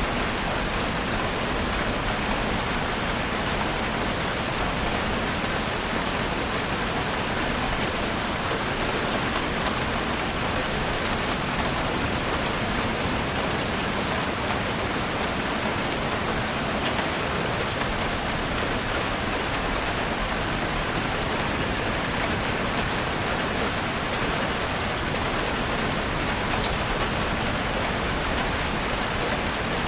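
Heavy rain falling steadily on a roof, a dense even hiss dotted with the ticks of individual drops.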